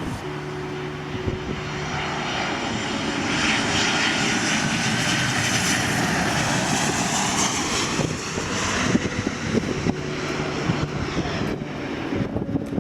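Boeing 737-700's CFM56-7B turbofan jet engines as the airliner comes in to land, a broad rushing roar that builds about two seconds in, stays loudest through the middle and fades after about nine seconds.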